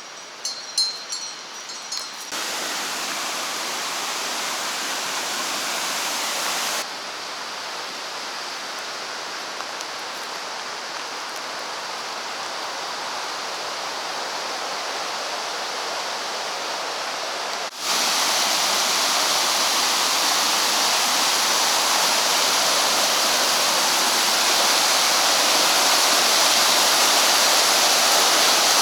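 Mountain river water running, a steady rushing noise that jumps in level at cuts about 2, 7 and 18 seconds in and is loudest in the last part. In the first two seconds a few light ringing clinks sound over it.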